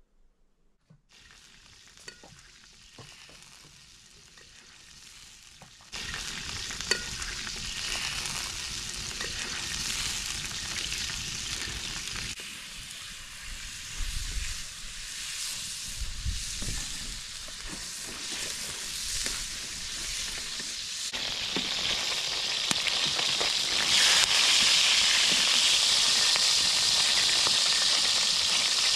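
Food frying in oil in a pan over an open fire: a steady sizzle that steps up in loudness about six seconds in and grows louder again near the end.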